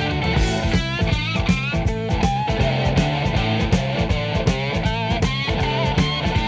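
Blues-rock recording: electric guitar playing bent, wavering lead lines over a steady bass line and drum beat.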